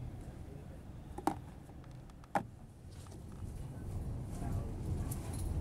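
Steady low rumble inside a passenger train carriage as the train rolls along, with two sharp clicks about a second and two seconds in. The rumble grows louder near the end.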